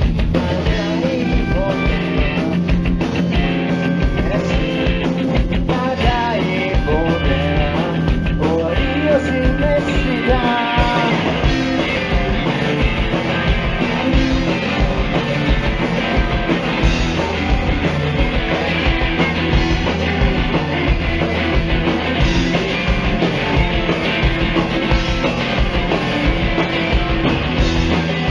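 Rock band playing live: drums, bass and electric guitars in a loud, dense mix, with a wavering lead melody about six to eleven seconds in.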